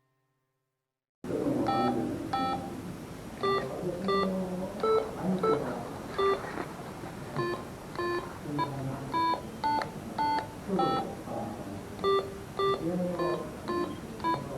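A quick, irregular series of short electronic beeps at several different pitches, starting about a second in after silence, over a faint background hubbub.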